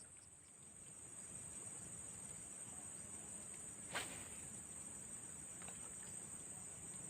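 Steady high-pitched insect chorus, with one sharp click about four seconds in.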